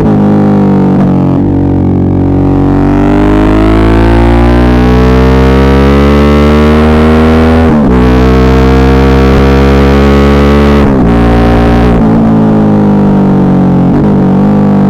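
Suzuki V-Strom 650's 645 cc V-twin engine under acceleration. Its pitch climbs steadily, drops sharply near the middle as it shifts up a gear, and climbs again. About three-quarters through it drops once more and then runs lower.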